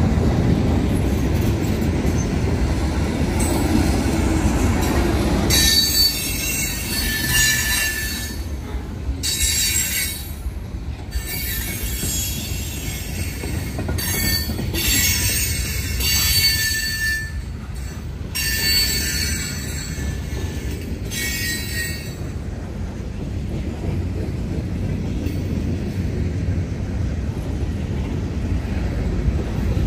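Freight cars of a Norfolk Southern train rolling past, a steady low rumble of wheels on rail. High-pitched wheel squeal comes and goes in several bursts from about six seconds in, dying away after about twenty-two seconds.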